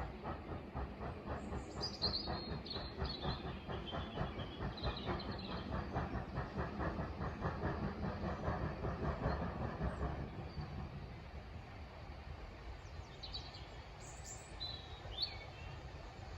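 A train running past, its wheels clicking rhythmically over the rail joints, dying away about ten seconds in. Birds chirp briefly.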